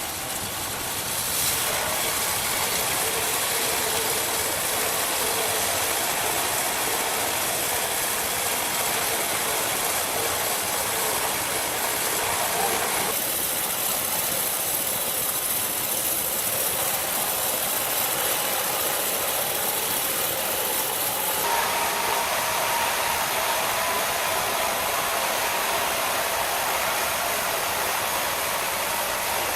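Loud, steady machine noise from a running engine-driven machine, a hiss-like rush without a clear pitch, which changes abruptly about halfway through and again about two-thirds of the way in.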